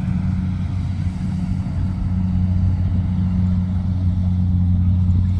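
Rice combine harvester running steadily, with a low, even engine drone.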